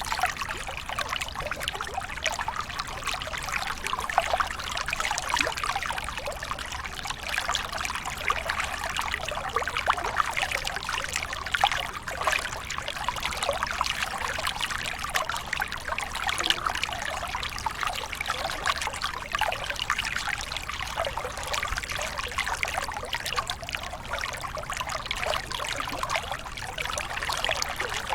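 Waterfall: water falling and splashing steadily, a dense, even stream of small splashes with no pauses.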